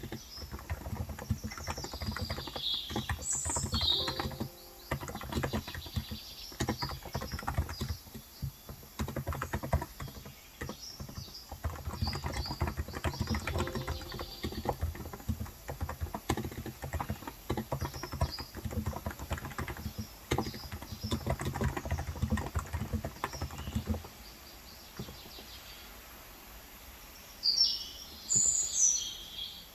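Fast, continuous typing on a Cox Endeavor electrostatic-capacitive tenkeyless keyboard with 35 g switches, stopping about 24 seconds in. Birds chirp outside near the start and again near the end.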